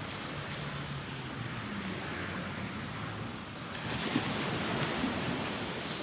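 Sea surf washing on the shore, a steady rushing hiss mixed with wind on the microphone, growing a little louder about two-thirds of the way through.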